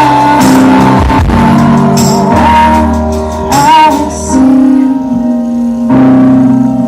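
A band playing a song with singing, held chords under a sung melody.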